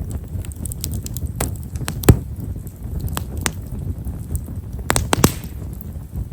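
Campfire of Japanese stewartia (himeshara) firewood crackling: small, fine pops scattered over the low rumble of the flames, with one sharp loud pop about two seconds in and a quick cluster of pops a little after the middle.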